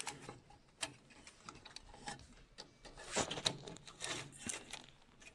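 Small plastic clicks and taps of a wire connector being handled and pushed into its matching socket inside a printer, scattered irregularly, a few louder ones a little past the middle.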